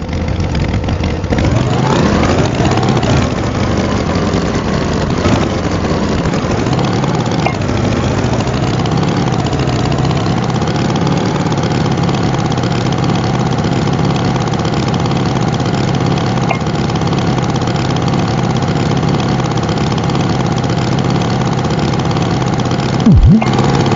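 Tractor engine revving up over the first few seconds, then running steadily at idle. There is a short, louder low sound just before the end.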